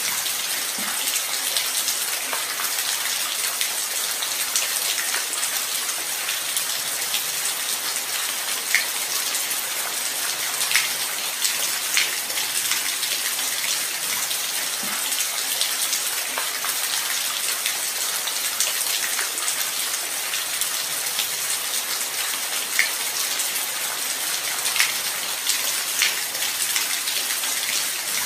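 Steady light rain falling, an even hiss with scattered sharper drops striking a surface.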